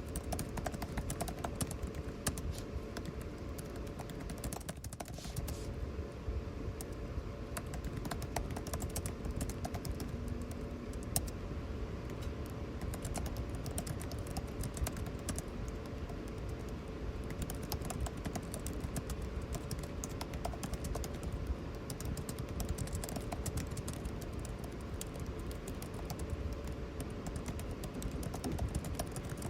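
Computer keyboard typing, a continuous patter of keystroke clicks, over the steady hum of air conditioning.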